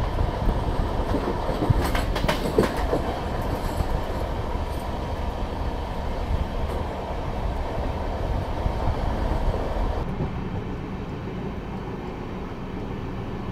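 Gatimaan Express coaches running at speed: a steady rumble of wheels on rail with a few sharp clacks about two seconds in. About ten seconds in it changes to the quieter, steady hum heard inside the coach.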